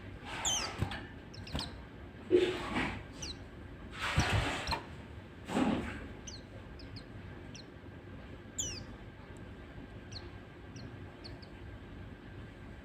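White-eyes (pleci) calling: a string of short, high chirps, each falling quickly in pitch, scattered through the stretch. Several short noisy bursts, like rustling or flapping, come in the first half.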